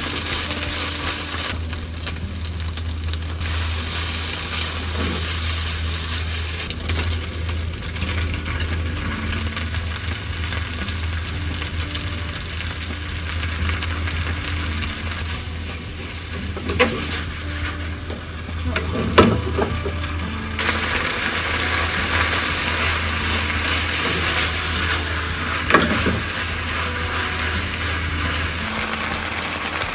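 Hot oil sizzling steadily as food fries in a pan, louder from about two-thirds of the way through, with a few sharp knocks of a utensil against the pan and a low steady hum underneath.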